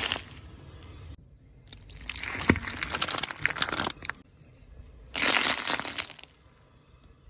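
Car tyre crushing objects: a dense crackling crunch of many small snaps for about two seconds, then a sudden loud burst of noise about a second long near five seconds in.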